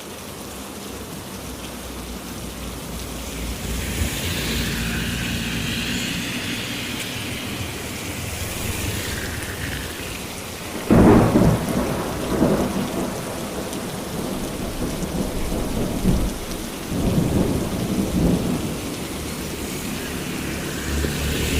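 Heavy rain falling steadily, with a sudden loud thunderclap about halfway through that rolls on as low rumbles for several seconds.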